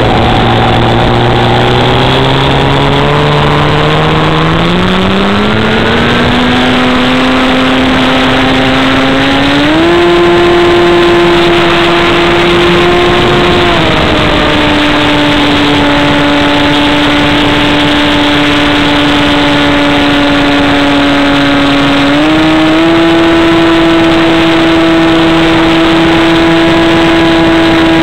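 Radio-controlled model airplane's motor running loud and steady, with its pitch shifting as the throttle changes. It climbs gradually early on, steps up about ten seconds in, settles lower a few seconds later, and steps up again near the end.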